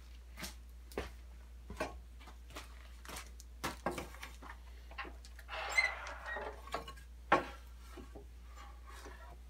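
Scattered knocks and clicks of wooden boards being handled at a miter saw stand, with a short scrape a little past halfway and a sharp knock a couple of seconds later.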